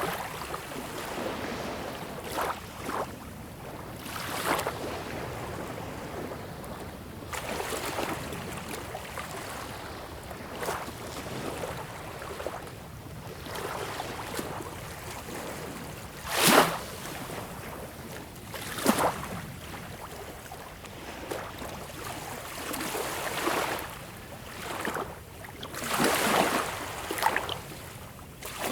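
Sea water lapping and splashing in irregular surges over a steady wash, with a sharp splash about sixteen seconds in, another a couple of seconds later, and a stronger surge near the end.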